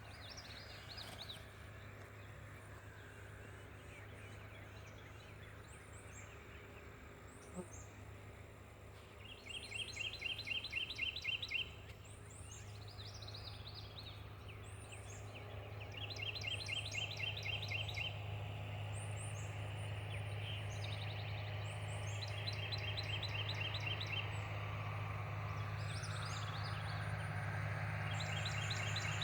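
Songbirds singing: one repeats a fast trill lasting about two seconds, roughly every six or seven seconds, among scattered high chirps from other birds. A steady low hum underneath grows louder about halfway through.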